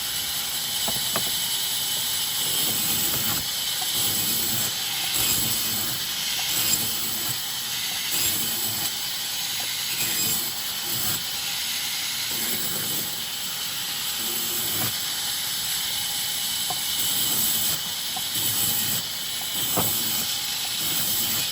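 Sawmill saw cutting raw timber: a steady hissing rasp of the blade through the wood, with a few sharp clicks from the machinery.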